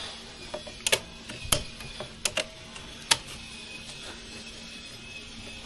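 A handful of sharp, irregular clicks and knocks, the loudest about a second and a half in and again about three seconds in, over a faint steady hum.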